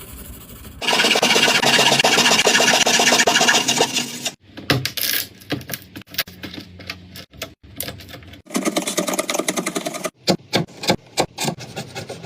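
Power tool running and cutting wood: one loud, fast-pulsing run of about three seconds, then a series of shorter choppy bursts of cutting and scraping.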